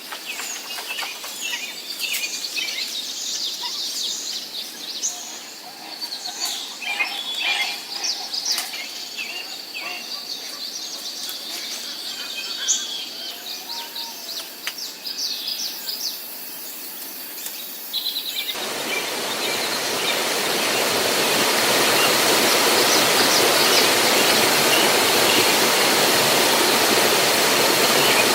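Small birds chirping busily, many short high calls over a faint steady high tone. About two-thirds of the way through, the sound cuts suddenly to a loud, steady rush of falling water.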